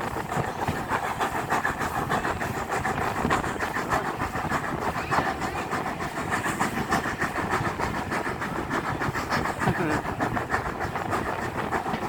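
Steam-hauled train on the move: steady running noise of the wheels on the rails, with many quick clicks and knocks throughout.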